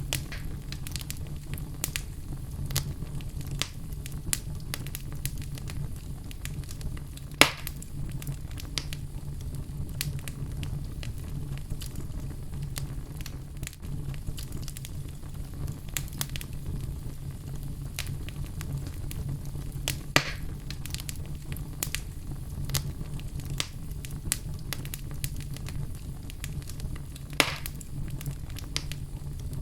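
Wood fire crackling over a steady low rumble, with many small crackles and three loud, sharp pops spread through.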